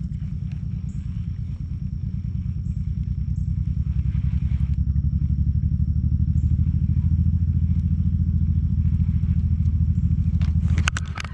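A motorboat's engine running steadily with a low, rapid pulsing, growing louder from about halfway through. A few sharp clicks near the end.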